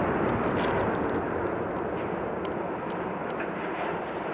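Dense rumble of a tower coming down in an explosive demolition, following the blast charges. It fades slowly, with a few sharp cracks.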